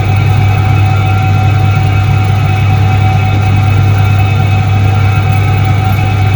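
1978 Soviet ISET-3 washing machine running with a loud, steady, unchanging electric motor hum and a few faint steady whining tones above it.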